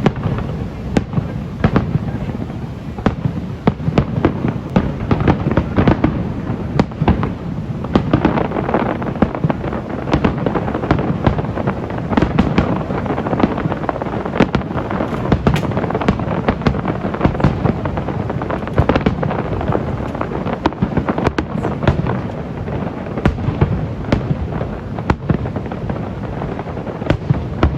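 Fireworks display: a rapid, continuous run of shell bursts and crackling, many sharp bangs a second over a constant rumble.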